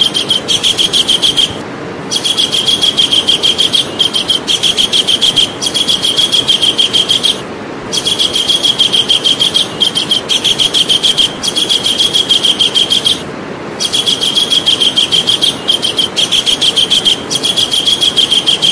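Javan kingfisher calling: long bouts of fast, sharp repeated notes in a rapid chatter, with short pauses between bouts about every five seconds.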